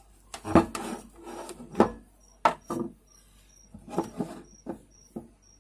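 Irregular knocks and clunks, with some rubbing, as box fan motor parts are handled and set down. Behind them a cricket chirps about twice a second.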